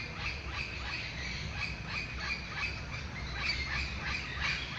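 A flock of parrots squawking and chattering, many short overlapping calls without a break.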